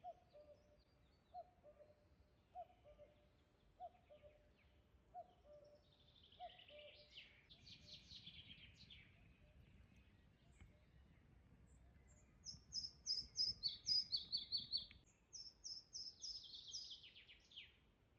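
Birds calling in the forest: a short low note repeated about every second and a quarter for the first seven seconds or so, then bursts of high, rapid chirping song, loudest in the second half.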